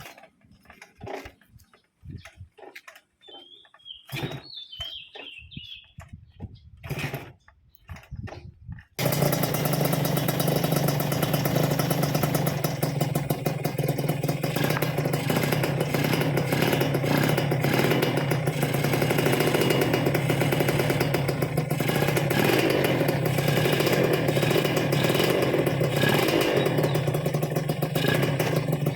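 Scattered knocks and clatter, then about nine seconds in the LS125R's two-stroke motorcycle engine starts abruptly and runs steadily.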